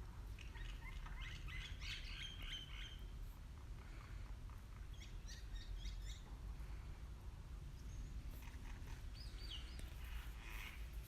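Faint bird chirping in short clusters over a steady low hum.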